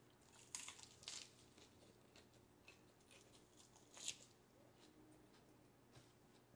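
Mostly near silence, with a few faint crisp crunches, the loudest about four seconds in: a romaine lettuce wrap of pork being bitten and chewed.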